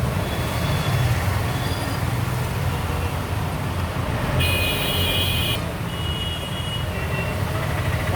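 Road traffic with a steady low engine rumble, and a vehicle horn sounding for about a second midway.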